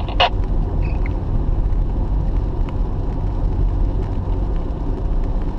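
Steady low rumble of a car on the road, heard from inside the cabin, with one short click about a quarter second in.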